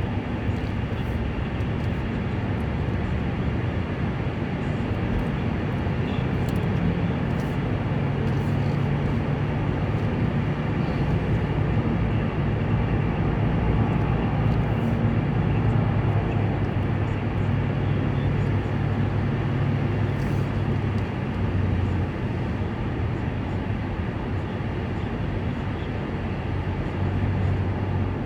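Heavy transport truck's diesel engine running under way with steady road noise; its low hum rises in pitch about a third of the way in and drops back later as the speed changes.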